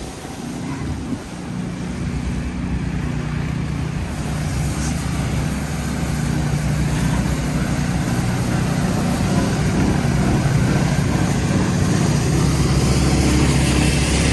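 A motor vehicle's engine running close by, a steady low hum over city traffic noise, growing slightly louder toward the end.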